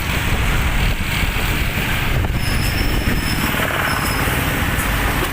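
Truck on the move: steady engine and road noise, with a thin high-pitched squeal sounding twice around the middle.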